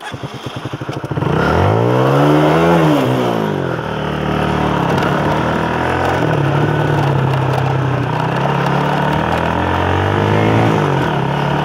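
Motorcycle engine starting and running at low revs, then the bike pulls away. The revs rise and drop back at a gear change about three seconds in, hold fairly steady at riding speed, and rise and drop again near the end.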